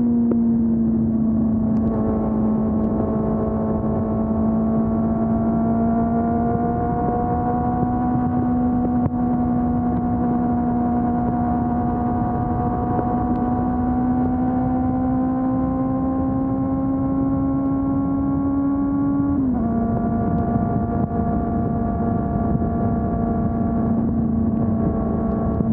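2020 Honda CB400 Super Four's inline-four engine running through its stock exhaust while riding, holding steady revs with the pitch creeping slowly up. About nineteen seconds in the pitch drops suddenly, then holds steady again. Wind and road noise run underneath.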